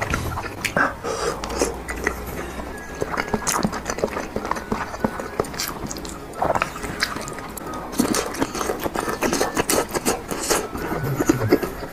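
Close-miked chewing of thick, saucy rice noodles: wet mouth clicks and smacks, with chopsticks scraping and clacking in the plate.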